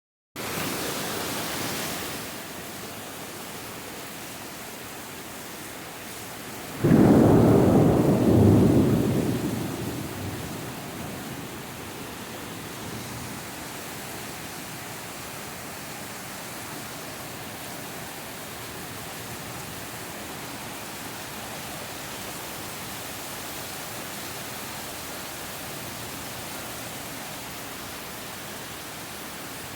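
Steady rain hissing, with a sudden loud clap of thunder about seven seconds in that rumbles and dies away over three or four seconds.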